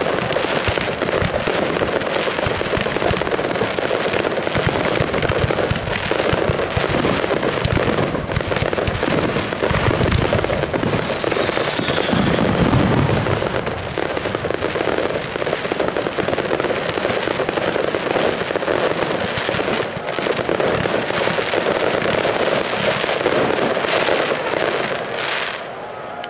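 Aerial fireworks display: a dense, continuous barrage of shell bursts and crackling, with a faint falling whistle about ten seconds in, easing off just before the end.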